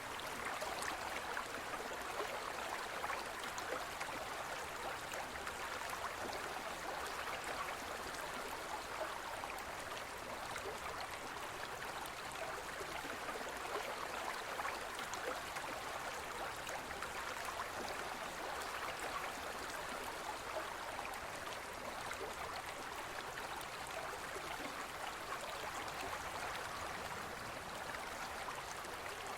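Gentle forest stream flowing over rocks, a steady babbling rush of water.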